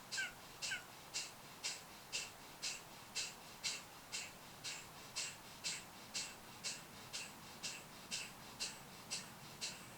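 Kapalabhati breathing: sharp, forceful exhales pushed out through the nose in a steady rhythm of about two a second, each a short puff of air. The run of puffs stops near the end, closing the final round.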